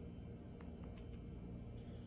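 Lovebird pecking: a few faint light clicks over a low steady hum.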